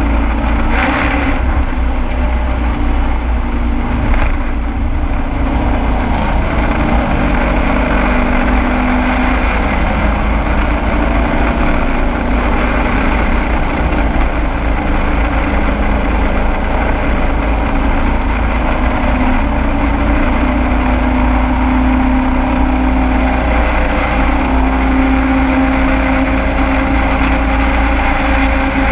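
Race truck's engine running hard at racing speed, heard from inside the cab: a loud, continuous engine note whose pitch shifts a little, over a heavy constant low rumble.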